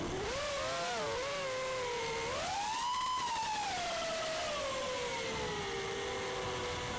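FPV quadcopter's brushless motors whining, the pitch swelling and falling with throttle: several tones at slightly different pitches climb to a peak about three seconds in, then ease down and drift apart near the end, over a steady hiss.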